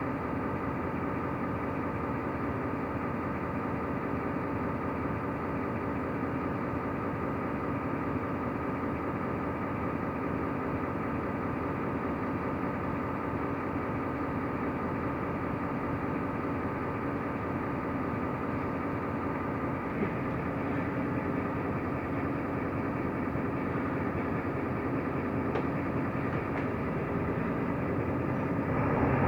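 Mercedes-Benz Türk O345 Conecto LF city bus heard from inside the cabin, its diesel engine running steadily, growing louder near the end.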